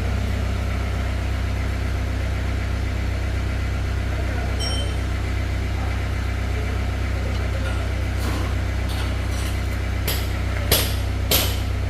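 A motor running steadily with a low, unchanging hum. Near the end come a few sharp knocks or clicks.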